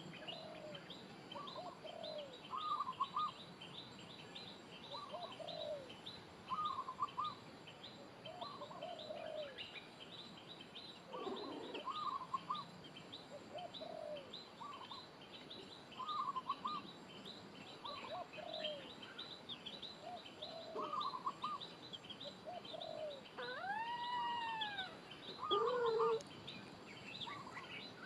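Birds chirping and calling: a rapid, high chirping keeps up throughout, with short lower calls repeating every second or two and one longer rising-and-falling call near the end.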